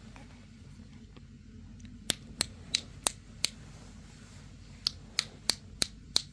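A series of sharp clicks or snaps in two runs of about five, roughly three a second, over a low steady background hum.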